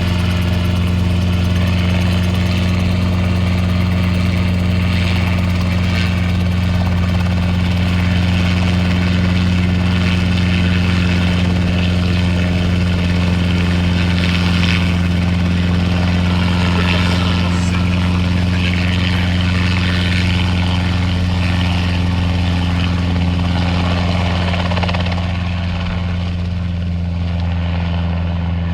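Vehicle engine running at a steady speed: a constant low drone that holds one pitch throughout, with uneven rustling noise above it.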